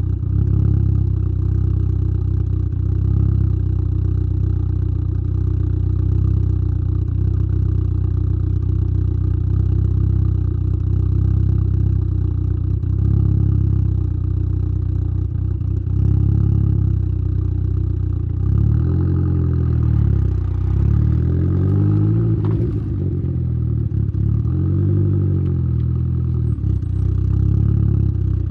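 Exhaust of a tuned Saab 9-3's B204 turbocharged four-cylinder, with a TD04-19T turbo, 3-inch downpipe and Simons muffler, heard close at the tailpipe while driving. It runs steadily at first, then in the last third the engine note rises and falls several times as the throttle is worked.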